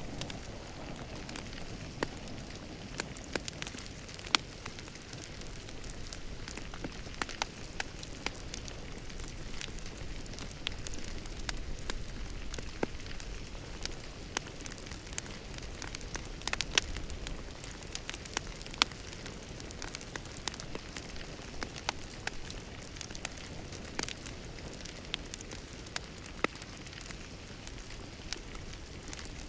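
Wood fire burning in a fireplace, crackling with frequent irregular sharp pops over a steady low rush of flame.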